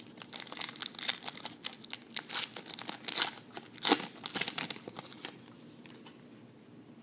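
Foil wrapper of a trading-card pack being torn open and crinkled in the hands. The dense crackling stops a little after five seconds in.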